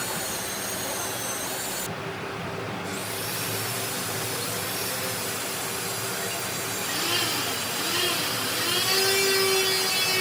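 An electric power tool working wood: a steady motor whine whose pitch sags and recovers a couple of times about two-thirds of the way in, as the tool is loaded, then holds steady near the end.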